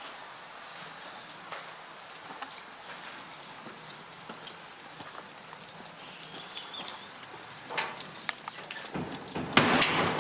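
Rain falling steadily, a constant hiss with scattered patter of drops. A bird chirps a few times near the end.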